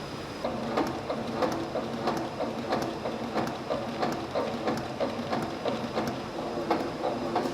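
Button-production machinery running: a steady hum, joined about half a second in by a regular mechanical clacking, about three strokes a second.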